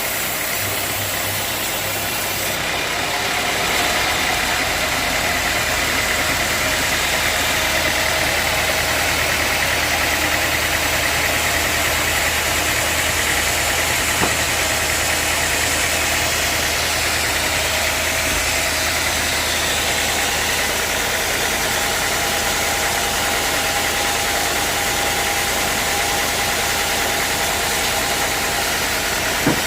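Sawmill machinery running steadily with a motor's hum and a steady whine. It grows louder about three seconds in, as when the saw takes up its work.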